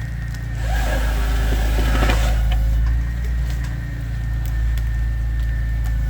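Engine of a feller-buncher boom truck running steadily, with a thin steady high whine above it. About a second in, a louder rushing noise lasts about a second and a half, then dies away.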